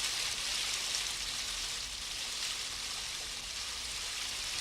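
Steady hiss of rushing river water, as from water pouring through a weir.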